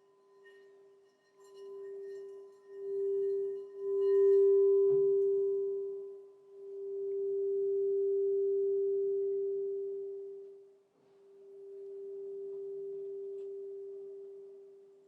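Crystal singing bowl sounding one steady low tone with a faint higher overtone, swelling and fading in several long waves, with a soft knock about five seconds in.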